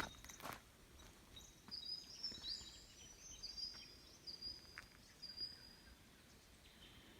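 Faint bird calls: a series of short, thin, high-pitched chirps and whistles over quiet outdoor background noise, with a sharp click at the very start.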